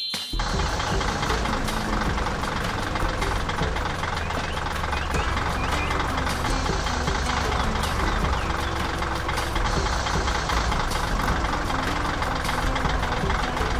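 Engine of a heavy construction vehicle running steadily, a dense low rumble.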